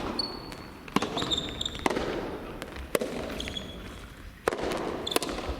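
Soft tennis rally: the soft rubber ball is struck sharply by rackets and bounces on the court, about once a second, with short high squeaks of shoes on the court between the strokes.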